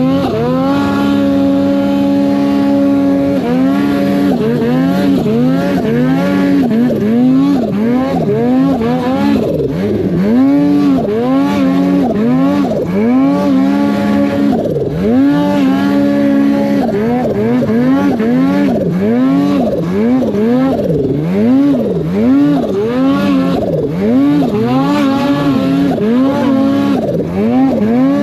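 Snowmobile engine revving up and down over and over in quick throttle blips, with a couple of stretches held at steady revs, as a sled works through deep snow.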